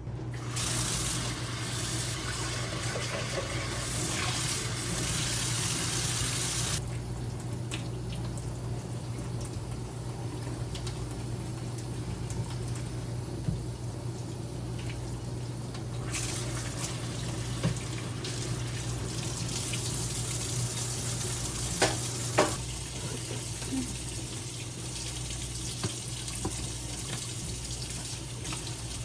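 Tap water running into a sink in two spells, with a few sharp clinks and knocks in between, over a steady low hum.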